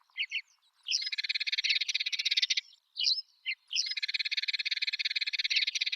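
Eurasian tree sparrows chirping: two short chirps, then a rapid chattering run lasting about a second and a half, two more short chirps, and another long chattering run from about four seconds in.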